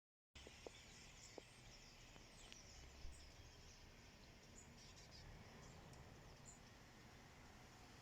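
Faint, scattered high chirps and calls from a large flock of birds over a low, steady background hum.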